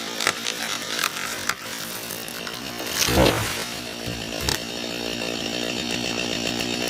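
Chainsaw engine running steadily, with a few sharp cracks early on and a heavy low thump about three seconds in.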